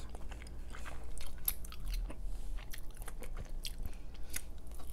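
Close-miked chewing and biting into a slice of pizza: a scatter of small wet and crisp mouth clicks, with a bite into the slice near the end.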